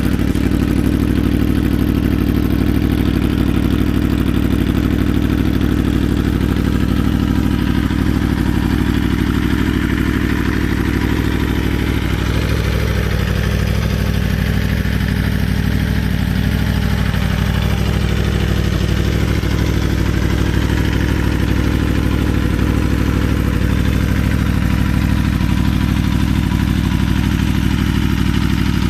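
2014 Aprilia Tuono V4 R's 1000 cc V4 engine idling steadily.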